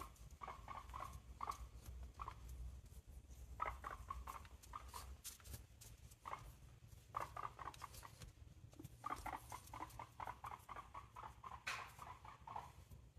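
Pet guinea pig giving short squeaks in quick runs as she walks, with pauses between the runs, over light tapping steps. It is habitual chatter, not a sign of distress.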